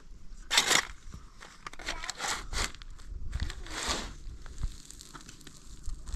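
Irregular crunching and rustling sounds, a few louder bursts among softer scraping, as of something being handled, broken or trodden on.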